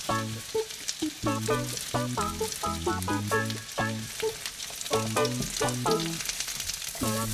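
Potato sticks and red pepper strips sizzling and crackling in a frying pan, stirred with a silicone spatula. A melody of separate pitched notes plays over it.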